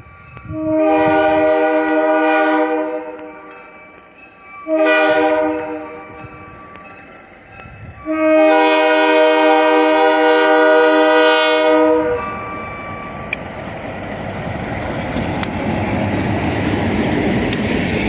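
Buffalo Southern RS18U diesel locomotive's air horn sounding a long, a short and a long blast, a chord of several tones, the close of a grade-crossing signal. A rising rumble and rush follow as the locomotive approaches, plowing through snow.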